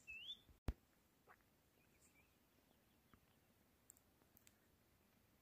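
Near silence, opened by two short whistled bird chirps that sweep up and down, and broken by a single sharp click under a second in. A few faint ticks and distant chirps follow.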